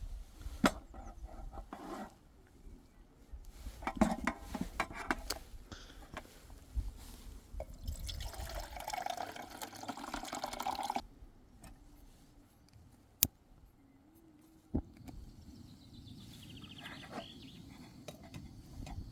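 Water being poured into a cooking pot for about three seconds in the middle, among clicks, knocks and a short rattle from handling camp cookware.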